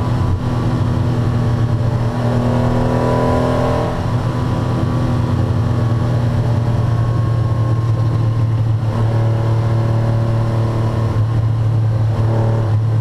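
1981 Porsche 911 SC's air-cooled flat-six running hard, heard from inside the cabin. The engine note climbs over the first few seconds, broken by a couple of short dips, then holds steady at high revs.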